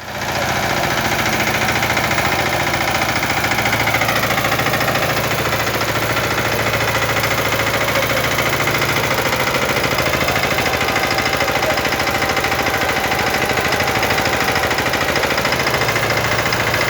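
Small tractor's engine running steadily, with its pitch dropping a little about four seconds in.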